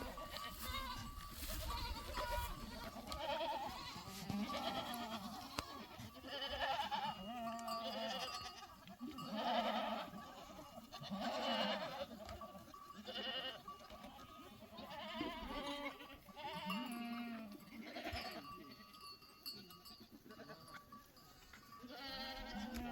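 A flock of goats and sheep bleating, with many wavering calls following one another throughout.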